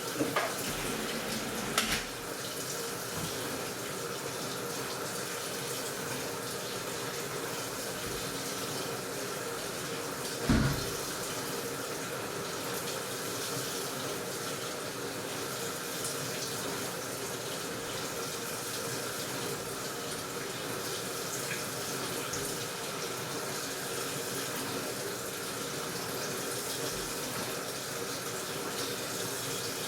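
Washing machine filling with water: a steady rush of running water. Small knocks come near the start, and a single louder thump about ten seconds in.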